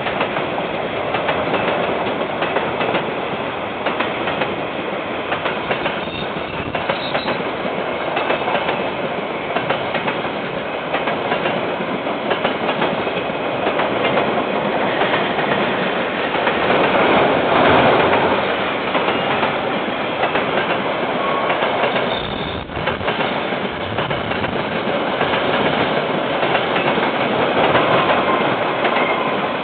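A KiwiRail train rolling past on the line, its wagons clattering steadily over the rails. The sound swells about halfway through and again near the end, with a momentary drop-out about two-thirds of the way in. It is heard through a security camera's microphone, which cuts off the highest sounds.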